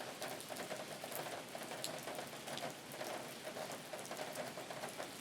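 Steady rain pattering on a surface, many small drops ticking over a constant hiss.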